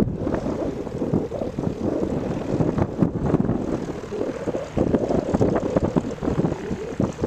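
A light propeller airplane's piston engine running, heard loud and close, with an uneven, fluttering sound.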